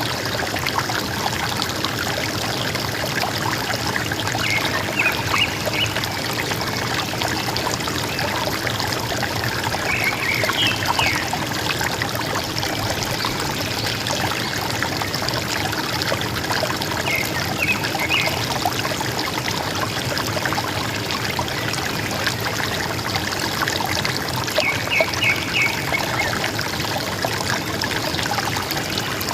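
River water gurgling steadily. Four times, a bird calls a short burst of three or four quick high notes.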